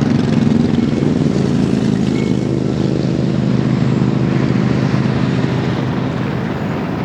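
Southern 4501's excursion train running past, a steady low rumble and drone that eases a little near the end.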